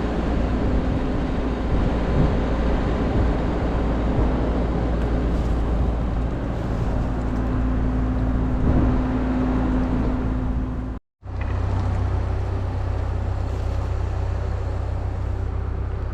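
Steady engine and road or motion noise of a moving vehicle, with a low hum. A brief total dropout to silence comes about eleven seconds in, then the same kind of running noise resumes with slightly changed tones.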